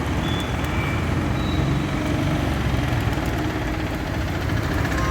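Steady city road traffic: vehicle engines running and idling as a continuous low rumble, with a few faint short high tones early on.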